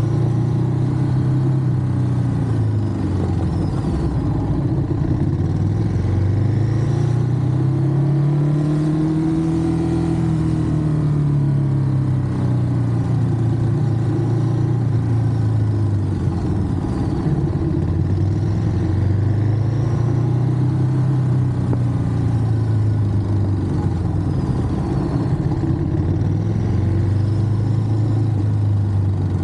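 Ducati Monster's V-twin engine running under way, its pitch rising and falling in long, slow swells as the bike speeds up and eases off.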